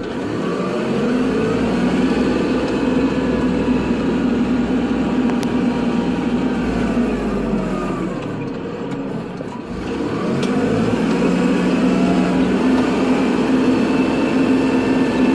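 Kubota tractor's diesel engine running steadily as it works, its pitch falling and rising with changes in engine speed. It eases off briefly about two-thirds of the way through, then picks back up.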